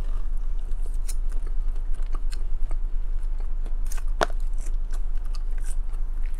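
Close-miked chewing of chili cheese fries: soft wet mouth clicks and smacks, with one sharper click about four seconds in, over a steady low hum.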